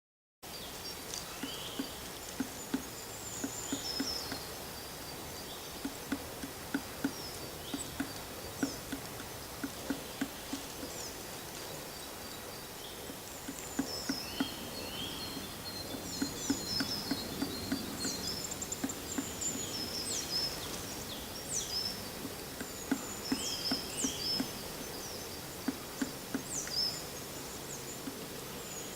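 Black woodpecker chiselling out a nest hole, its bill striking the wood in short irregular runs of dull knocks. Other birds call and sing with short high chirps and whistles.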